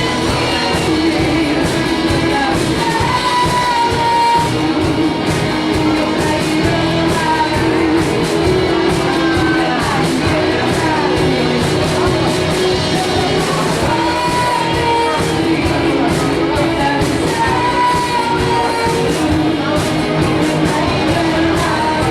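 Rock band playing live with drums, bass, guitars and keyboard, and sung vocals over the top. The sound carries the ring of a large room.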